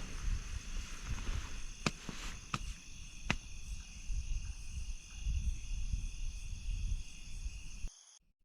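Night insect chorus: crickets trilling steadily at several high pitches over a low rumble, with three sharp clicks a few seconds in. Near the end the sound cuts off suddenly, leaving a fainter insect chorus at different pitches.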